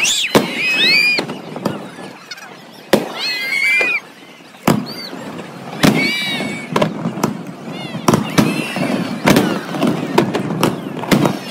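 Aerial fireworks bursting: many sharp bangs in irregular succession, with several short high squeals that rise and fall between them in the first seven seconds or so.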